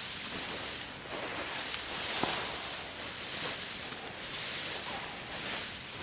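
Dry rice plants and straw rustling and swishing during manual harvesting, as a steady rustle that swells about two seconds in, with a few faint ticks.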